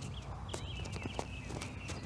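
Small songbirds chirping in short, quick sweeping notes, over a steady low hum and light scattered ticks.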